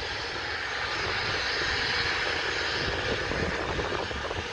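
Jet airliner engines running: a steady rushing noise with no clear tone.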